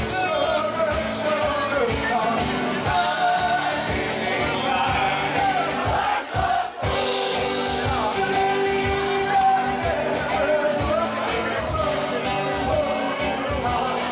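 Live band music with drums and singing, dropping out briefly a little past halfway.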